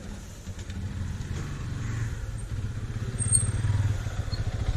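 A Yamaha MT-15 motorcycle's single-cylinder engine, just started, running at idle with a rapid low putter that grows somewhat louder.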